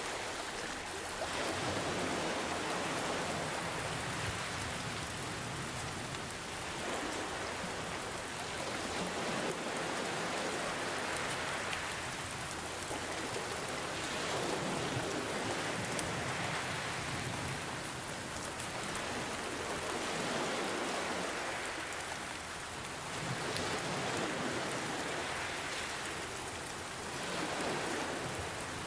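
Steady rain falling, mixed with ocean waves that swell and fall back every few seconds.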